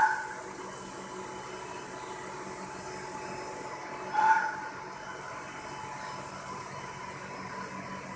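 Robotic vacuum cleaner running with a steady whir, a short louder sound with two clear pitches breaking in about four seconds in.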